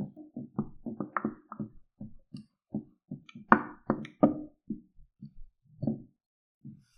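A run of soft, irregular knocks and taps, several a second, with a few sharper clicks about halfway through.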